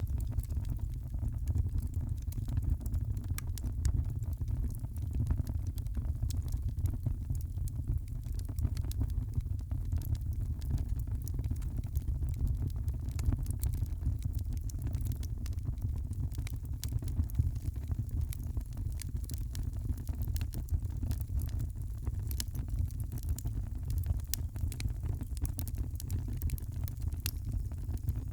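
Wood fire crackling in a fireplace: many small sharp pops at irregular moments over a steady low rumble.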